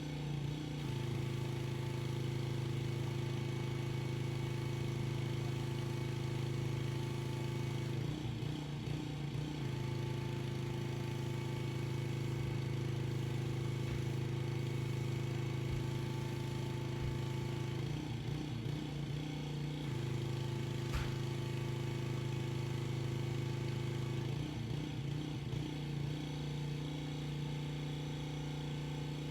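Pressure washer's small engine running steadily with a constant hum. Three times its steady tone breaks into an unsteady, wavering sound for a second or two, and there is a single sharp tick a little over two-thirds of the way through.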